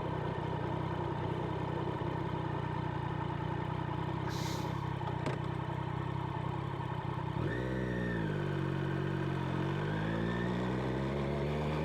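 Motorcycle engine idling steadily, then revving and pulling away about seven seconds in, its pitch climbing slowly as it accelerates.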